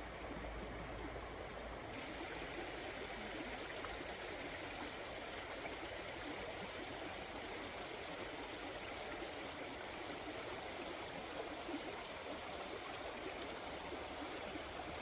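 Water flowing in a stream: a steady rushing hiss.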